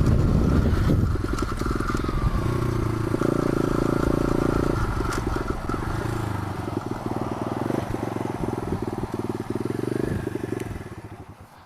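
125 cc pit bike engine running while ridden, its pitch shifting as the throttle changes, then dying away near the end.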